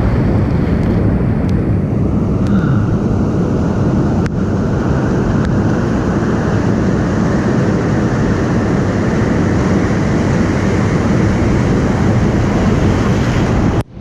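Ocean surf breaking and washing in, a steady loud rush mixed with wind buffeting the microphone. The sound drops out abruptly for a moment near the end.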